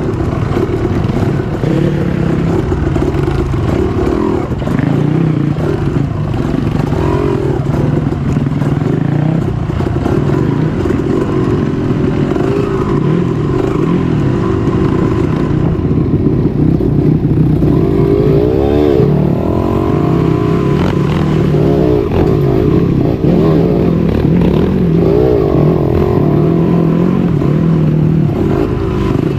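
Trail motorcycle engine revving up and down over and over as it is ridden off-road, with the pitch rising and falling throughout, and some clattering and scraping.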